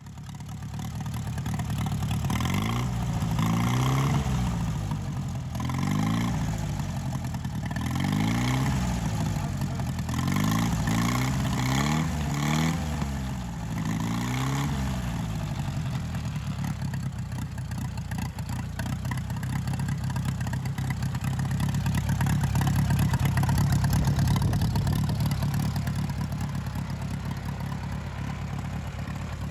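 1936 Silver King R44 tractor's Hercules IXA four-cylinder engine running, revved up and let back down several times in the first half, then settling into a steady run.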